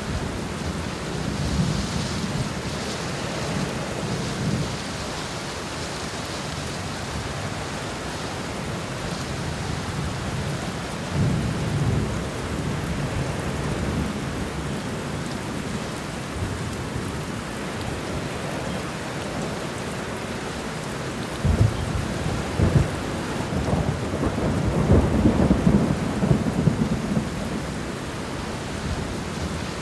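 Thunderstorm: steady rain with rolling thunder. Low rumbles swell a couple of times, and about two-thirds of the way through a sharp thunderclap sets off the loudest rumble, which rolls on for several seconds.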